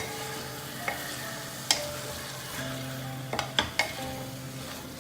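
Spoon stirring and mixing vegetables in a pot of hot spiced masala with a light sizzle, the spoon knocking against the pot a few times, with a quick cluster of knocks about three and a half seconds in.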